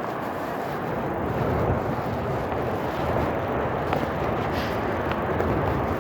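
Steady rush of wind and tyre noise from a bicycle being ridden, with a few faint clicks.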